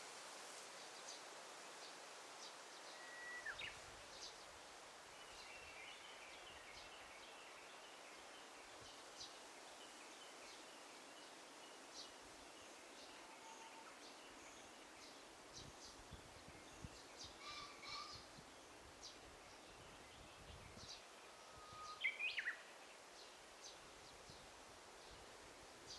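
Faint forest ambience of scattered birdsong over a steady hiss: short chirps and calls, a run of twittering a few seconds in, and a louder call that sweeps down in pitch about 22 seconds in.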